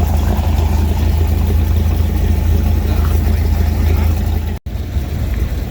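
An old car's engine running slowly as it rolls past, a steady low rumble. The sound breaks off abruptly for a moment about four and a half seconds in, then a slightly quieter engine sound resumes.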